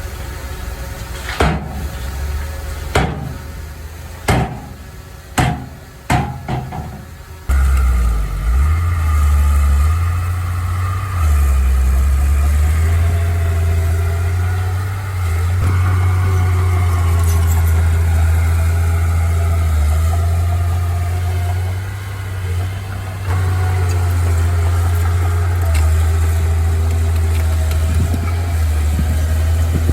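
A string of about six sharp knocks or clanks over the first seven seconds. Then the deep, steady rumble of a heavy vehicle's engine running starts suddenly and carries on.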